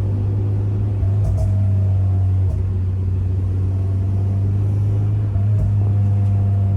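Honda Civic's K24 four-cylinder engine running at steady revs, a constant drone that gets louder about a second in, with a few brief breaks and clicks. The car carries a burble tune meant to make the exhaust crackle and pop.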